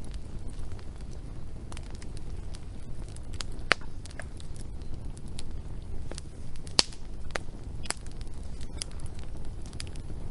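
Wood fire crackling: scattered sharp pops and snaps over a steady low rumble, with the loudest pops about four and seven seconds in.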